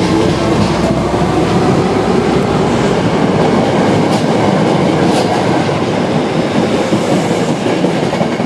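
Osaka Metro 24 series electric train running on the rails, a steady rumble with a couple of sharp clicks from the wheels and track around the middle.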